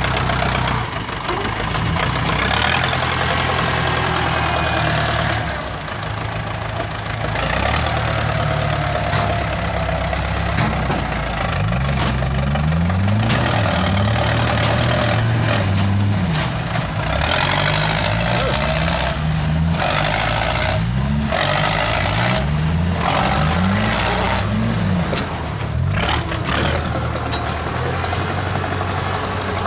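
Dump truck's diesel engine running. Through the middle stretch it is revved up and down over and over, about once a second.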